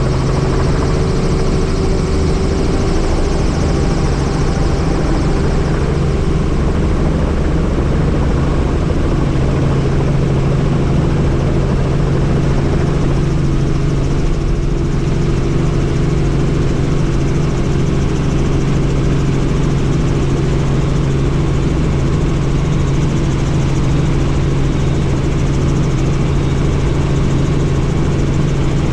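Helicopter in flight heard from inside the doors-off cabin: a steady, loud drone of rotor and engine with a constant low hum and a hiss of rushing air.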